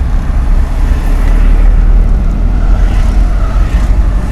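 Manual car's engine and road noise inside the cabin, a steady low rumble as the car drives on in third gear after a downshift, getting louder about a second in.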